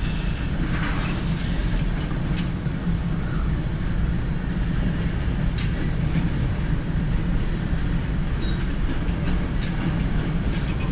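CSX empty grain train, a steady low freight-train rumble with a few faint clicks and clanks.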